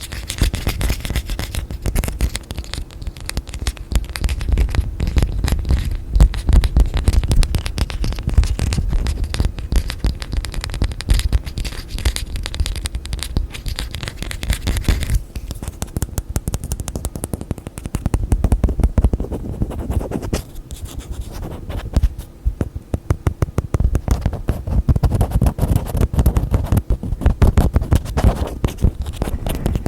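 Rapid, close-up tapping and scratching of fingers on containers and their lids. About halfway through the sound turns duller, with less hiss on top.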